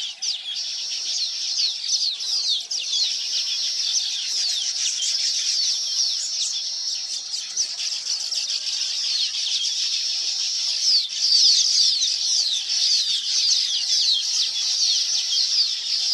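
Many small birds chirping at once: a dense, continuous chatter of short, quick falling chirps, a little louder about eleven seconds in.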